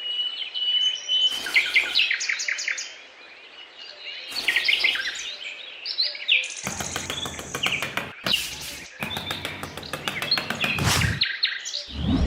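Small birds chirping and calling in short repeated bursts, with one held whistled note near the start. From about six and a half seconds to eleven seconds a loud rapid rattling of many quick clicks covers them.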